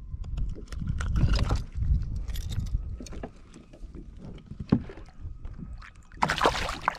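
Handling noise in a fishing kayak on the water: low rumble, scrapes and short rushes of noise, a sharp knock about two-thirds of the way in, and a louder rush of noise near the end.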